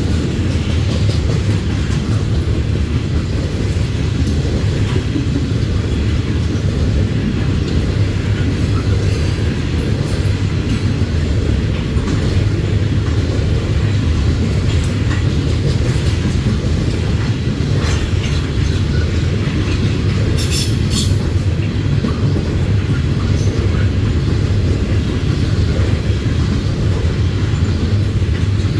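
Loaded coal train of freight cars rolling past, a steady low rumble of wheels on rail. A brief high-pitched wheel screech comes about twenty seconds in.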